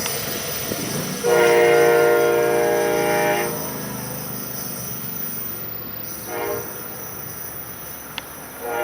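Locomotive air horn chord on an approaching Amtrak Pacific Surfliner train: a long blast, then a short one a few seconds later, then another blast starting near the end, over a steady rumble.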